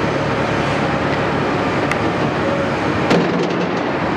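CAT 329E excavator running steadily, with one sharp metallic clank a little after three seconds in.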